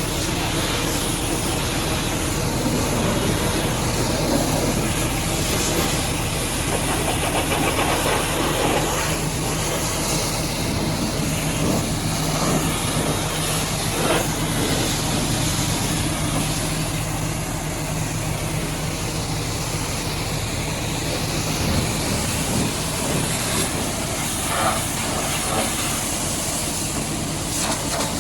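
High-pressure washer jet spraying water onto a truck: a loud, steady hiss over a steady low hum.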